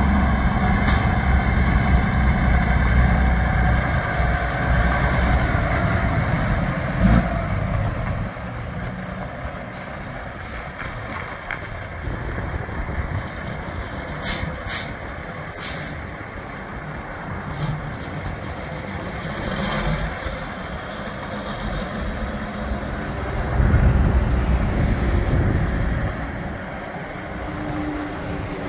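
2010 Peterbilt 387 dump truck's diesel engine running, louder for the first several seconds and then settling lower. A few brief sharp sounds come around the middle.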